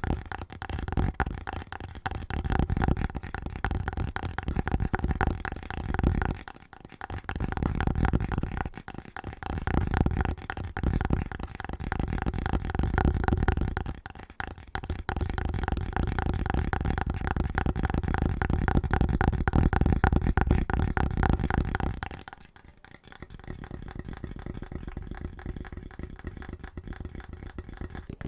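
Very fast tapping on household objects: quick runs of taps broken by short pauses, turning quieter near the end.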